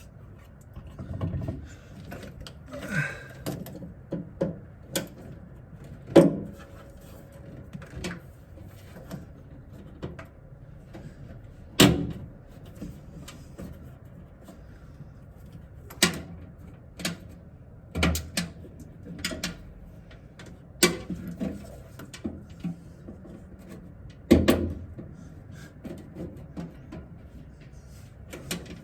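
Irregular knocks and clicks from hands working a wiring loom and its clips into a bare car body shell, about a dozen sharp hits scattered through, the loudest around the middle and near the end.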